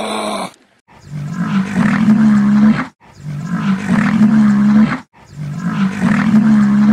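Three long, deep calls from a rhinoceros, each lasting nearly two seconds with a short break between them and an even pitch. The first half second holds the end of a loud call.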